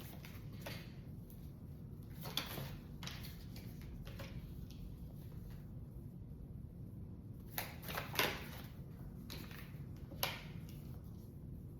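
Tarot cards being handled and drawn: a handful of short, soft card slaps and rustles at irregular intervals over a low steady room hum.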